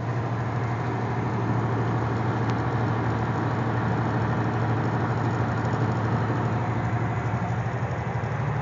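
Vehicle engine running steadily with a low, even hum, heard from inside the vehicle.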